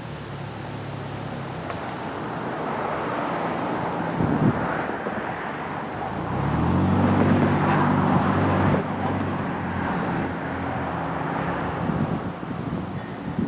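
Road vehicles passing, with an engine that rises in pitch about six seconds in and then runs steadily and loudly.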